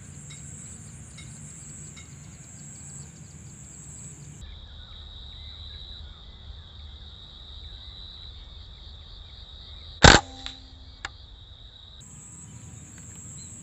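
A PCP air rifle fires a single sharp shot about ten seconds in, followed by a faint click or two. Insects trill steadily throughout.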